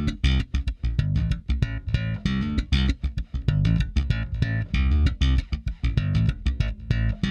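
Electric bass guitar playing a fast, busy line of short plucked notes, coloured by a tube channel-strip plugin (Fuse Audio Labs Tube Lab).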